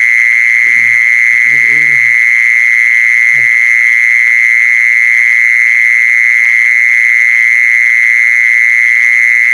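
A recorded animal call played on a loop as a lure. A loud, steady high-pitched trill runs throughout, and three short low calls come in the first few seconds.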